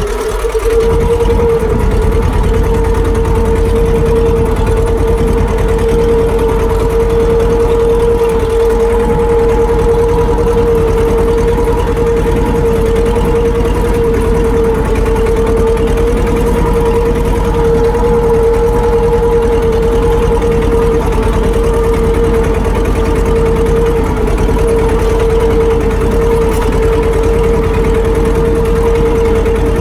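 Farm tractor engine running steadily at a constant speed, a loud even drone with an unchanging pitch.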